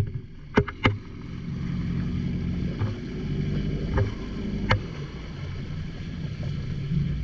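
Boat engine running with a steady low drone and water or wind noise, broken by a few sharp knocks.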